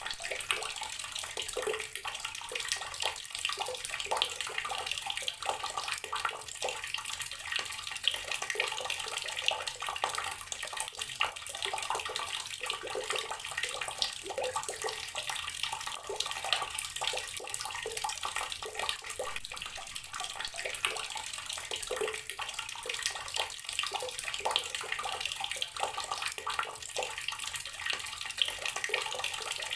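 Water tap running steadily, the stream splashing into a basin or tub.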